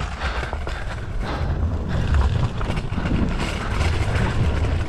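Wind rumbling on a GoPro's microphone while a mini bike rolls fast down a dirt trail, with the bike's rolling noise mixed in; the rumble swells and eases without a break.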